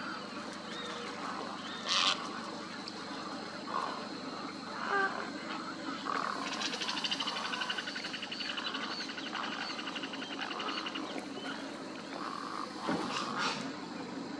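Many wild birds calling at once in a wetland chorus: repeated short calls, a rapid trill lasting several seconds in the middle, and louder harsh calls about two seconds in and near the end, over a low steady hum.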